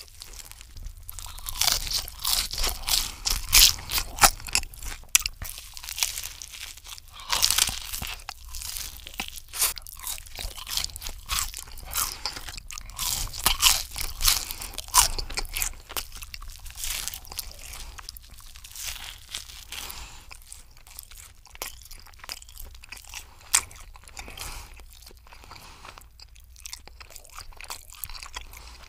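A person chewing and crunching a breaded chicken parmesan sandwich on toasted bread and french fries: dense crackling crunches, busiest in the first half and softer and sparser later.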